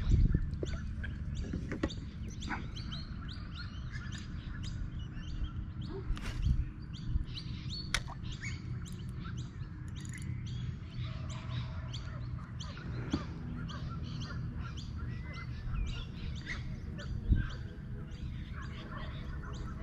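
Small birds chirping and calling on and off, many short high chirps, over a low steady rumble. A few sharp knocks stand out about six, eight and seventeen seconds in.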